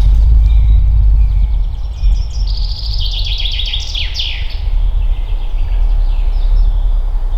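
A songbird singing one phrase of rapid repeated notes that quicken and end in a few downward-sweeping notes, over a steady low wind rumble.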